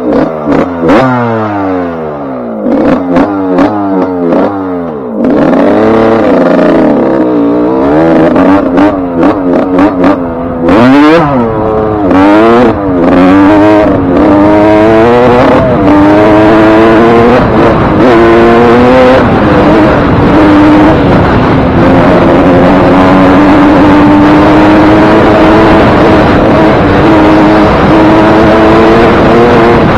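Suzuki RM125 two-stroke single-cylinder motocross engine under way, revving up and down in quick rises and falls for the first dozen seconds or so, then holding a steadier, higher pitch. The top end is freshly rebuilt with a new piston ring and wrist pin.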